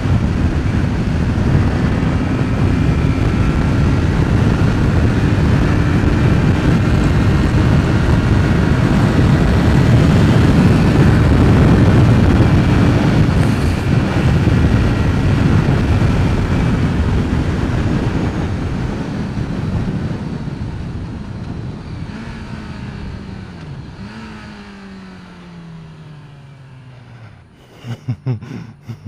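An inline-four motorcycle engine running at road speed under heavy wind noise on the rider's microphone. In the last third the wind dies away and the engine note falls in several steps as the bike slows, with a few sharp clicks near the end.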